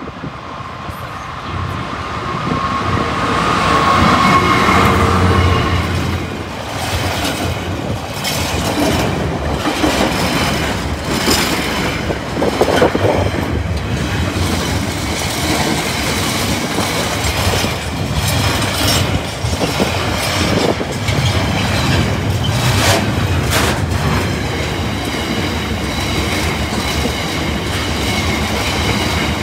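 A Class 66 diesel-electric freight locomotive passes at a level crossing, followed by a long train of container wagons rolling by with a steady rumble and a run of wheel clicks and knocks over the rail joints. A steady high tone sounds over the rumble for the first few seconds as the locomotive goes by.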